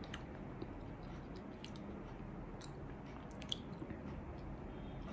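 Faint chewing of a small piece of dried fruit, with a few soft, scattered mouth clicks.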